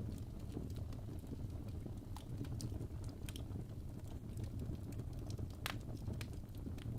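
Wood fire burning in a fireplace: a steady low rumble of the flames with irregular sharp crackles and pops from the logs, one louder pop a little before the six-second mark.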